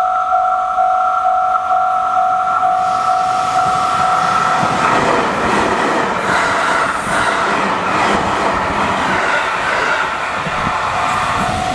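A Japanese level-crossing alarm rings in a steady repeating two-tone ding. About five seconds in, a six-car JR Central 313 series and 211 series electric train passes and its running noise drowns out the bell. The bell is heard again near the end.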